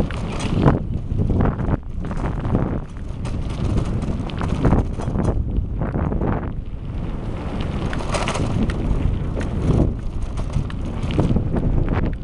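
Wind buffeting the microphone of a moving bicycle-mounted camera: a dense low rumble that swells and dips in uneven gusts, with scattered rattles from the ride.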